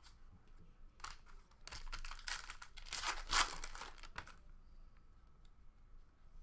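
A 2019 Panini Donruss Soccer trading card pack being torn open, its wrapper crinkling for about two and a half seconds. A short crackle comes about a second in, and the rustling stops a little past the middle.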